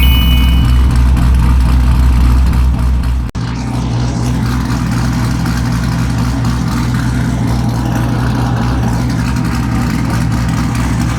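A car engine running steadily with a deep, low rumble. It is cut off abruptly about three seconds in and then carries on a little quieter.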